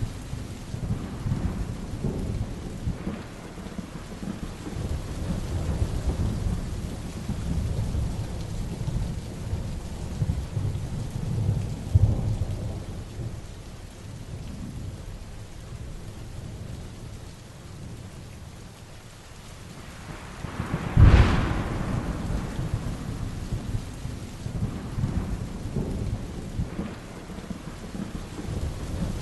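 Heavy rain with thunder rolling low and unevenly. There is a sharp crack about twelve seconds in, and a loud, close thunderclap about twenty-one seconds in.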